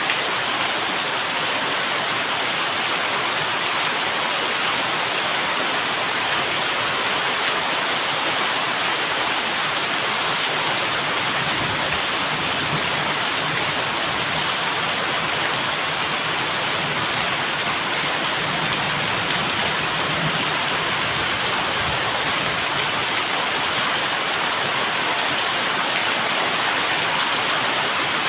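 Steady heavy rain, an even hiss that does not let up. A faint low rumble comes and goes through the middle.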